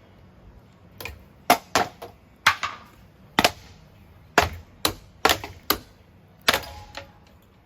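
About a dozen sharp, irregular cracks and clacks over about six seconds as a Hampton Bay Huggington 2 ceiling fan is smashed apart, with hard parts striking and breaking.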